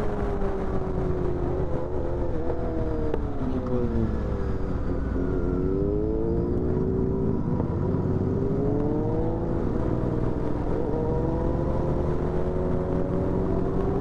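Royal Enfield Continental GT 650 parallel-twin engine running under way. Its pitch falls over the first few seconds as the throttle eases off, then climbs again as it accelerates, with a low wind rumble on the microphone.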